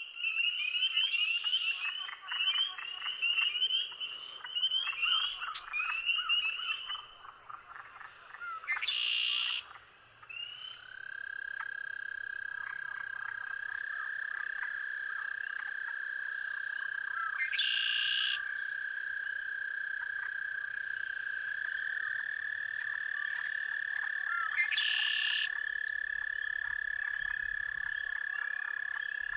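A chorus of calling frogs: many short chirping calls overlap for the first several seconds, then a few long, steady trills at different pitches take over and run on together, with an occasional brief louder call cutting in.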